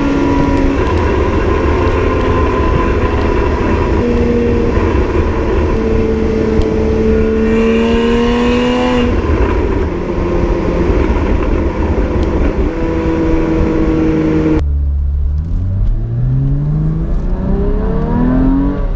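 Porsche Cayman's naturally aspirated flat-six engine pulling through the gears. The revs climb gently, then drop about halfway through at a gear change. Near the end the revs rise quickly under hard acceleration.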